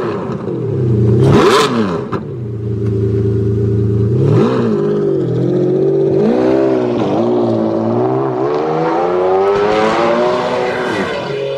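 Car engine revving: two quick blips, about a second and a half and four and a half seconds in, then a longer run of wavering revs that climbs in pitch toward the end.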